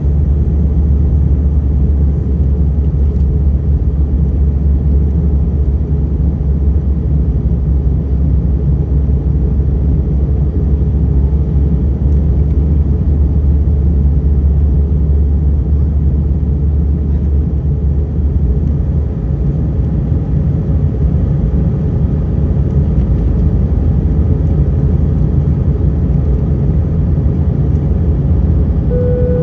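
Airbus A320 cabin noise: the jet engines and rushing air heard from inside the cabin as a loud, steady, deep rumble. A faint steady tone joins about two-thirds of the way through.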